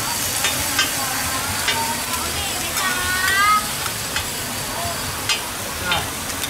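Oysters and eggs sizzling in oil on a large flat griddle, with a metal spatula scraping and tapping against the griddle as the oyster omelette is stirred and turned. The sizzle is a steady hiss, and the spatula makes sharp clicks every so often.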